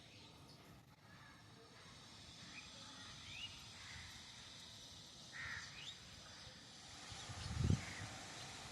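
Birds calling: short, scattered rising chirps and a harsher, caw-like call about five seconds in. A low thump near the end is the loudest sound.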